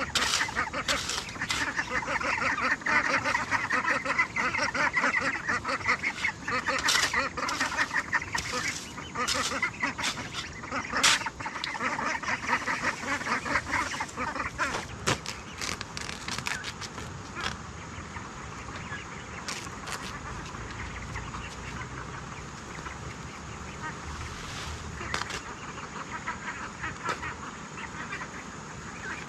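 A flock of farm waterfowl calling in a dense chatter that thins out about halfway through, with scattered sharp clicks and knocks.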